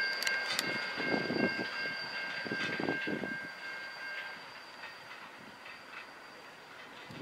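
Freight train cars rolling away on the rails: wheels clicking over rail joints and a thin, high, steady squeal of wheels on rail, all fading. Part of the squeal drops out about four seconds in.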